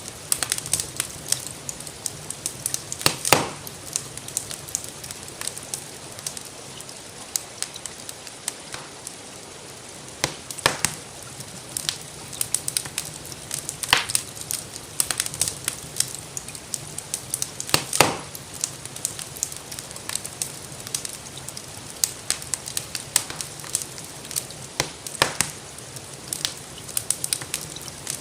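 Wood fire crackling in a fireplace, with frequent small snaps and a few louder pops, over a steady hiss of gentle rain.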